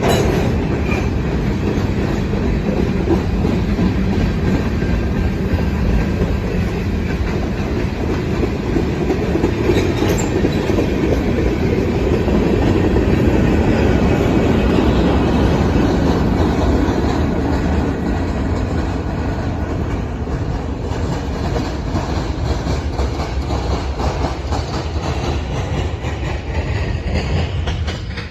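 Train's railroad cars rolling steadily past at close range, with continuous rumble and wheel noise on the rails.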